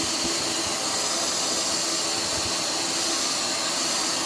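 Total TVC1412 800 W wet and dry vacuum cleaner running steadily: a constant rushing hiss of air through the nozzle over a faint motor hum.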